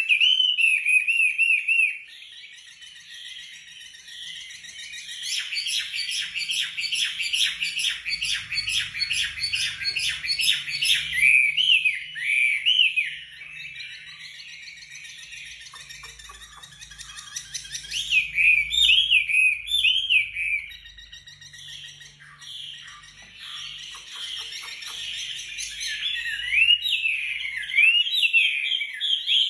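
Wambi songbird singing loudly in rapid, tightly packed bursts of repeated notes, mixed with rising-and-falling whistled phrases. The song goes softer twice and then returns at full strength.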